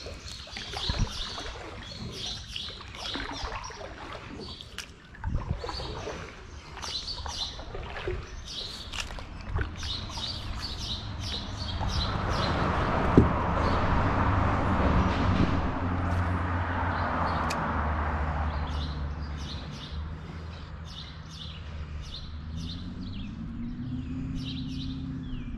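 Small birds chirping over and over in short bursts of calls, over a low steady hum. A broad rush of noise swells up and fades away midway through.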